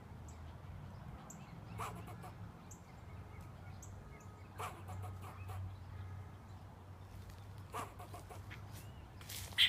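Squirrel barking, three short sharp barks about three seconds apart, made at a person it sees as a threat, over a faint low steady hum. A louder brief sound comes right at the end.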